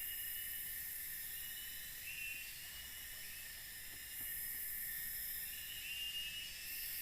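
Forest insect chorus: a steady high-pitched buzzing and shrilling that fades somewhat a couple of seconds in and swells again about four seconds in, with a few short chirps.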